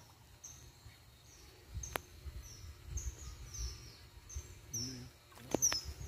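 A bird calling a short, high, falling chirp over and over, about twice a second, over a low rumble, with two sharp clicks about two seconds in and near the end.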